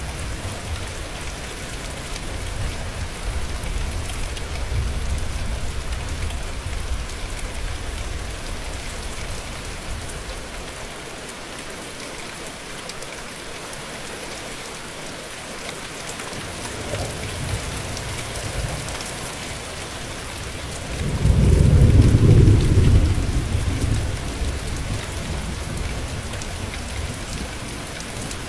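Steady rain hissing on a surface, with low thunder rumbling in the first part. About three quarters of the way through comes a louder, deep roll of thunder lasting a couple of seconds.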